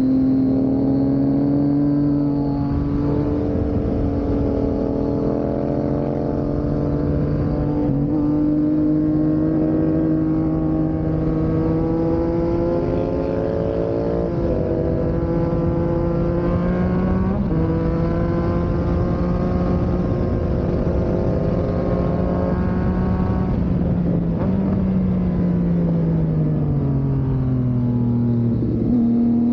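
Yamaha MT naked motorcycle engine pulling uphill under load, its note climbing slowly and changing abruptly at several gear changes, then falling as the revs drop near the end.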